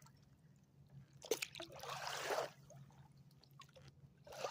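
Kayak paddle strokes turning the boat: a sharp knock about a second in, then water splashing and dripping off the blade, with another stroke's splash starting near the end.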